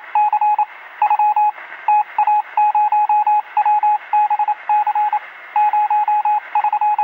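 Morse code: a single steady beep keyed on and off in short dots and longer dashes over a background hiss, heard through a radio with a narrow sound range.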